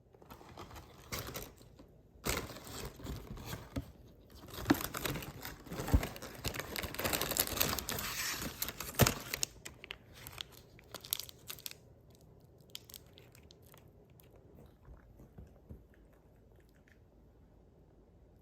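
Crinkling and rustling of plastic packaging with tearing, dense for about ten seconds and then thinning to a few scattered crackles.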